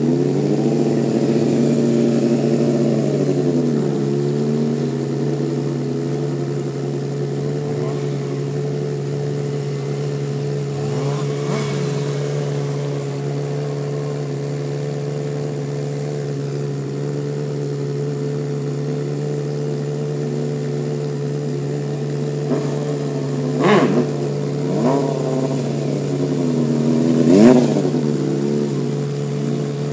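Inline-four sport-bike engines: a steady engine drone throughout, with a stunt motorcycle revving up and down as it rides wheelies across the lot. The loudest revs come as it passes close near the end.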